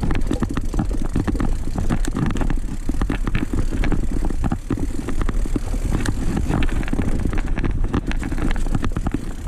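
Mountain bike ridden over a rough forest trail: a dense, irregular rattle of clicks and knocks from the tyres, chain and frame over a steady low rumble of wind on the microphone.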